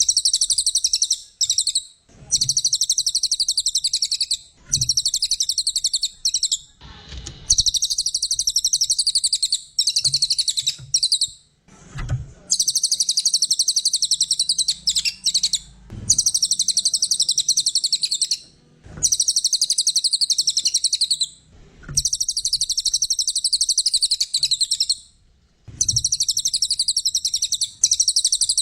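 Cililin coklat songbird singing: high, rapid chattering trills in phrases of two to four seconds, repeated about eight times with short pauses between them.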